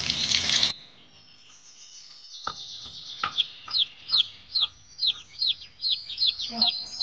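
A loud hiss cuts off under a second in. Then a bird calls over and over, short high notes sweeping downward about twice a second, with two sharp knife chops on a wooden cutting board.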